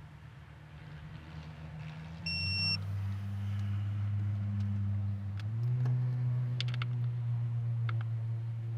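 A steady low mechanical hum that steps up in loudness and pitch twice, with a short high electronic beep about two seconds in, the signal of a digital torque wrench reaching its set 8 Nm on a valve body cover bolt. A few light ratchet clicks follow later.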